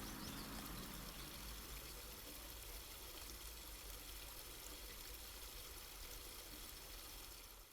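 The last acoustic guitar chord rings out and dies away within about the first second. After it comes a steady faint hiss of room tone with a low hum.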